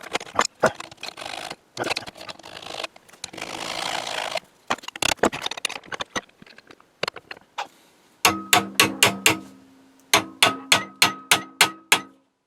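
Metal parts and tools clicking and scraping against metal, then from about eight seconds in two quick runs of sharp taps on a ringing metal part, roughly five strikes a second, each ringing on the same few tones.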